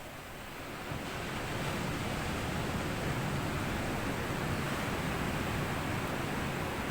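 Sea waves washing onto a sandy beach: the rush of surf swells about a second in and then holds steady.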